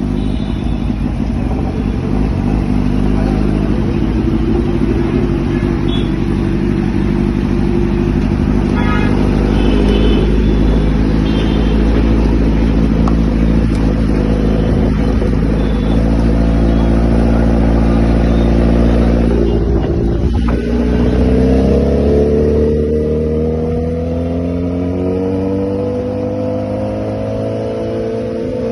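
Kawasaki Z900 inline-four engine running through an SC Project exhaust, holding a steady low drone, then from about 21 seconds in climbing steadily in pitch as the revs rise.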